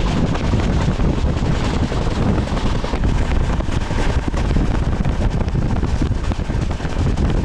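Steady rumble of a moving passenger train heard from on board, with wind buffeting the microphone.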